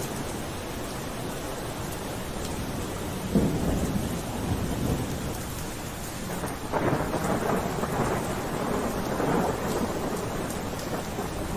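Steady rain falling, with rolls of thunder over it: a low rumble about three seconds in and a louder, longer rumble starting a little past halfway.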